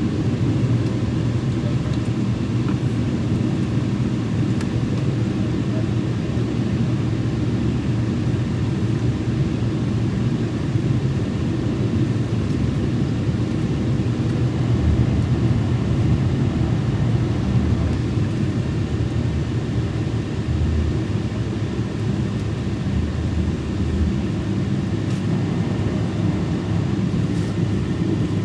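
Steady cabin noise inside a Boeing 777 airliner in flight: an even, low rumble of engines and airflow.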